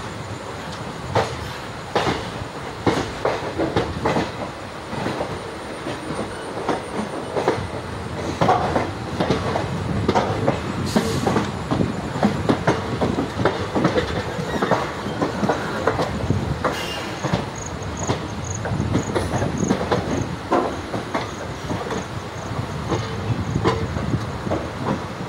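Passenger train coach running along the line, its wheels clattering over rail joints and points in irregular clicks and knocks over a steady rumble.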